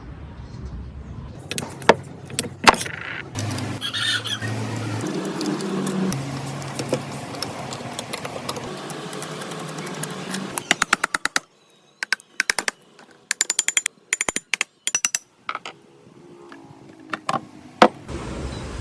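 Hand-tool work on metal: scattered clinks and knocks, then quick runs of clicks broken by short silences.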